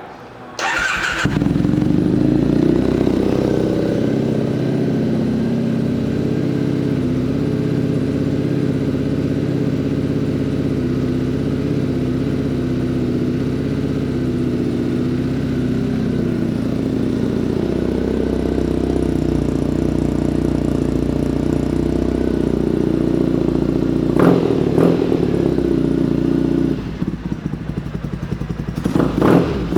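2003 Triumph Bonneville T100's 790 cc air-cooled parallel-twin engine, fitted with aftermarket exhaust pipes, starting about a second in and idling steadily. There are a couple of quick throttle blips near the end, and then the engine is shut off.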